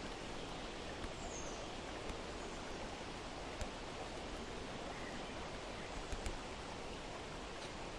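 Steady outdoor nature ambience by a reservoir: an even hiss of water or wind, with one faint bird chirp about a second and a half in and a few soft clicks.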